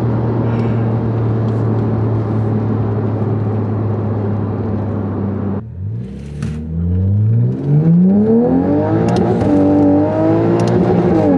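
Toyota Supra's B58 turbocharged inline-six through a catted downpipe and titanium exhaust, cruising steadily, then falling off briefly about halfway before revving up hard under acceleration. The pitch drops twice near the end as it shifts up.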